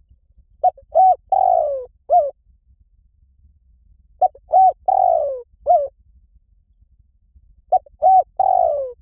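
Spotted dove cooing: a phrase of four notes, the third the longest and falling in pitch, repeated about every three and a half seconds. Two full phrases are heard and a third is cut short at the end.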